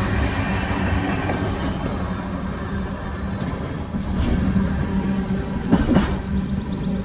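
Freight train's tank cars and last covered hopper rolling past on steel rails, wheels clacking over the track, with a sharp clank about six seconds in.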